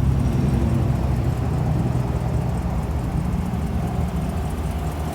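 Chevrolet Silverado 2500HD's 6.0-litre gasoline V8 idling steadily, a low even rumble.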